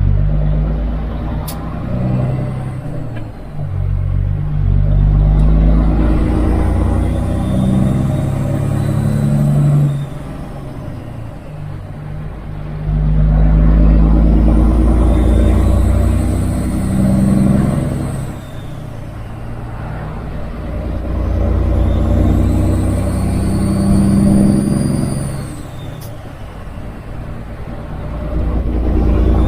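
Kenworth W900 semi truck's diesel engine running on the road, its sound swelling and easing several times as the truck pulls and backs off, with a faint whistle rising and falling above it.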